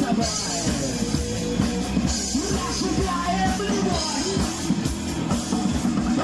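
Rock band playing a song, with drum kit and guitars.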